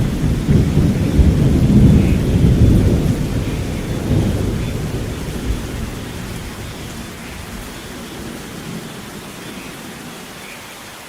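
Thunder rumbling deep and low, then slowly dying away over about the first six seconds, leaving steady rain falling.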